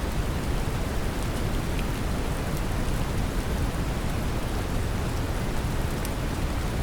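Steady brown noise, a deep even rumbling hiss, mixed with the patter of gentle rain, with faint scattered drop ticks on top.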